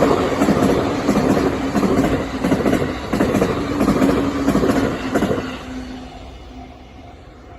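A train running over a level crossing, its rumble and wheel clatter fading away about five seconds in. The crossing's warning bell keeps ringing in an even repeating beat and is left sounding alone near the end.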